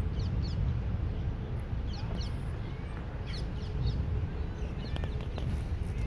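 Birds calling in the open: short, quick falling notes in clusters of two or three, repeated several times, over a steady low rumble.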